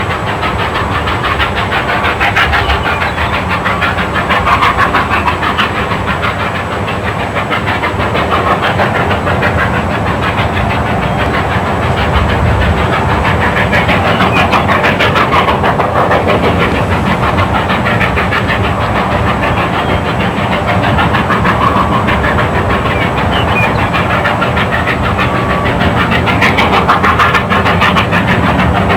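Narrow-gauge train running along the track: a steady, loud clatter of wheels on the rails.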